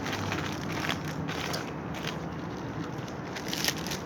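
Potato chips being bitten and chewed with the mouth close to the microphone: an irregular run of short crackly crunches, with one sharper crunch near the end.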